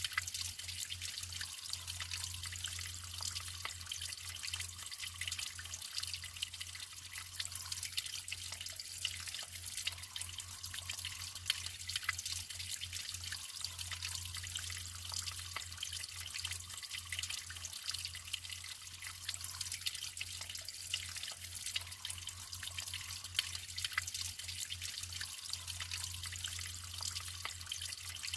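Natural running water trickling and splashing without a break, with many small drips and splashes.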